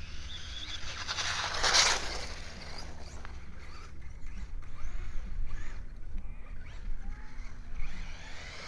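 Electric motor of a Traxxas RC car whining, rising and falling in pitch as it is driven through snow, with a loud hiss about two seconds in, over a steady low rumble.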